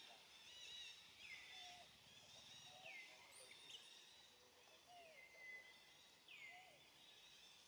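Faint birdsong: a repeated call that sweeps down in pitch and then levels off, about every second and a half, with softer, lower chirps between.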